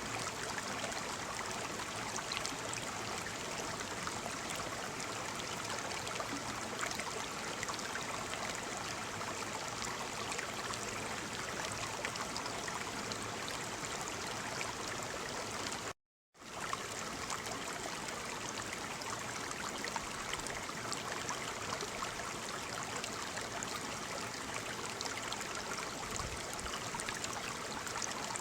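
Waterfall: a steady, even rush of falling water. It drops out completely for about half a second a little past halfway, then resumes unchanged.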